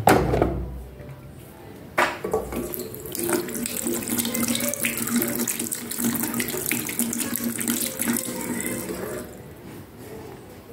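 Water running from a tap over a washing machine's inlet filter screen as sand and dirt are rinsed out of it. It is preceded by a knock, starts about two seconds in, runs steadily and stops shortly before the end.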